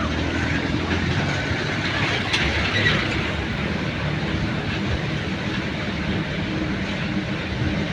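A jeep driving on a rough, unpaved mountain track: a steady engine and road rumble with scattered knocks and rattles.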